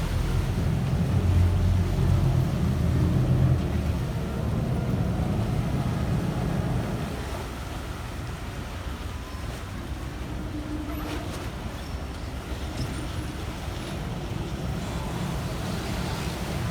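Low, steady rumble of a river ferry boat's engine, heavier for the first several seconds and then easing to a quieter, even run.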